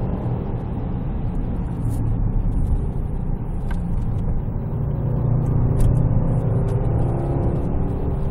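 Cabin noise of a 2014 Range Rover Sport V8 Supercharged on the move, heard from inside. It is a steady low rumble of the supercharged 5.0-litre V8 and the road, with a few faint ticks.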